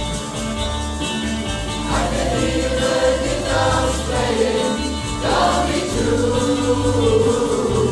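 Music: a choir singing in a gospel style over a steady bass accompaniment.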